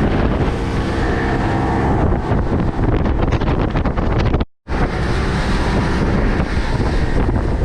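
Motorboat under way on open sea: a steady engine drone with heavy wind buffeting the microphone. The sound cuts out for a split second about four and a half seconds in.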